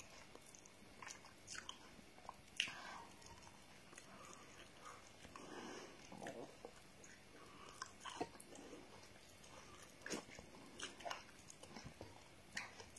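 Faint sounds of a person eating garri soaked in water with a spoon: quiet chewing with a few scattered soft clicks.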